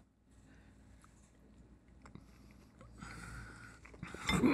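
Quiet close-up chewing of a mouthful of soft, stringy natto ravioli, with faint small clicks. Near the end a man's voice comes in, falling in pitch.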